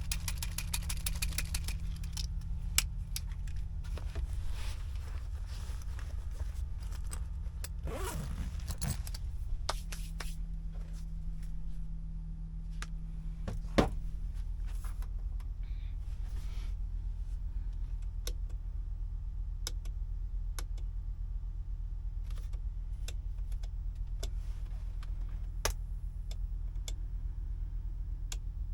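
A DAF XF 480 truck's diesel engine running steadily, with scattered clicks and a jingling rattle over it. There is a quick run of ticks at the start and a sharp knock about fourteen seconds in.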